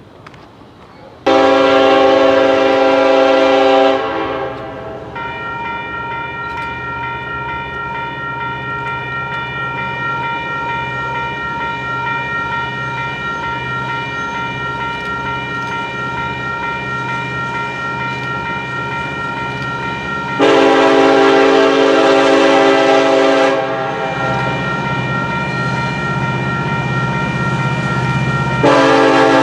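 Train's air horn sounding three long chords, the first about a second in, another about two-thirds of the way through, and a third starting near the end. Between the blasts a steady ringing tone and a low engine rumble continue as the train passes.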